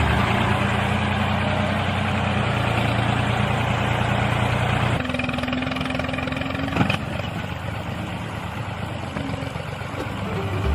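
Small motor of a homemade miniature tractor running steadily. Its note changes about halfway through, and there is a short click a little later.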